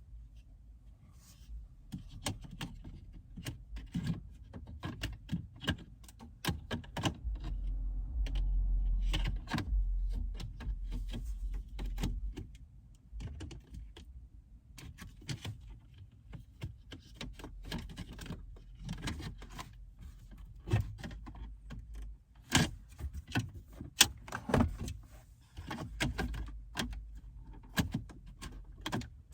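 Irregular clicks, taps and rattles of car interior trim parts and tools being handled, with a low rumble for a few seconds a quarter of the way in.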